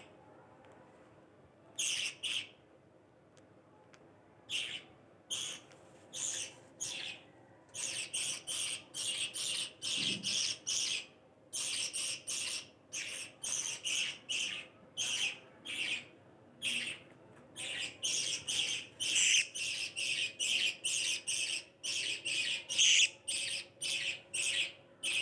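A flock of small Australian parrots chirping and chattering in short high calls, sparse at first and then coming thick and fast from about eight seconds in, over a faint steady hum.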